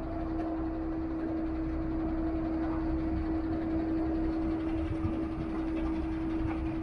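Hydraulics of a recovery truck's tilting bed working under load: a steady whine from the hydraulic pump, one held tone that starts at the outset, over the truck's engine running.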